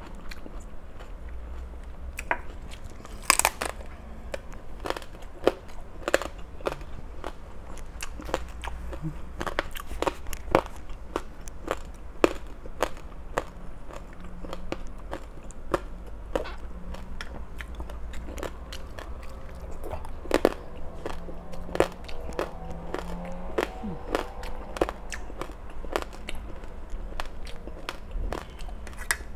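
A person chewing and biting into crunchy food close to the microphone: a steady run of sharp crunches and crackles, a few of them much louder.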